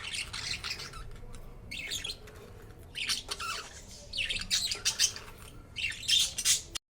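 Pet budgerigars chirping and squawking in quick bursts of short high calls and warbles. The sound breaks off briefly near the end.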